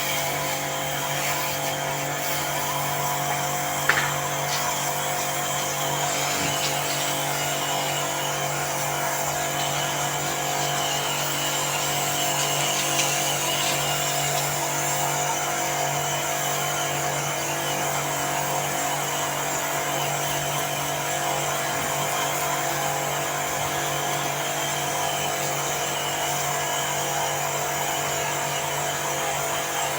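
Electric pressure-washer pump running steadily while its water jet washes an air conditioner's outdoor unit, a constant motor whine under a spray hiss. A short click about four seconds in.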